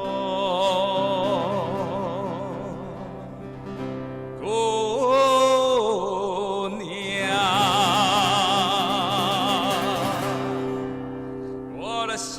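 Opera-style singing of a Chinese song: long held notes with wide vibrato over a steady sustained accompaniment.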